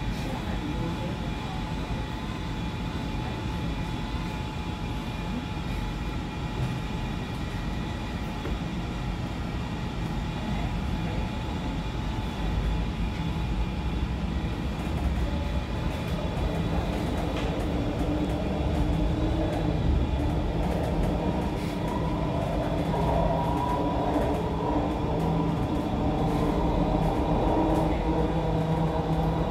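MTR C-Train electric multiple unit heard from inside the carriage as it pulls away and gathers speed: the rumble of the running gear with steady electric traction tones. It grows slowly louder, and further tones join about halfway through.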